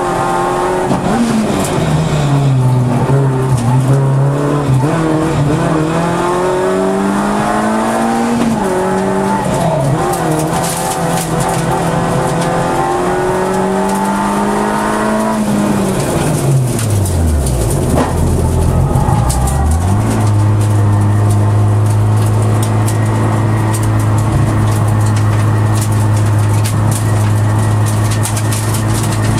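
Peugeot 106 Rallye's four-cylinder engine heard from inside the cabin, driven hard with revs rising and falling through the corners. About sixteen seconds in, the revs drop sharply and climb back. The engine then holds a steady note for the last nine seconds.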